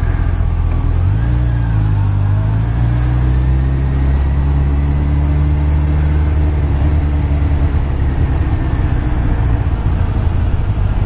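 Honda CBR1100XX Super Blackbird's inline-four engine running under way. Its pitch steps up about a second in, climbs gently, then eases off slightly near the end.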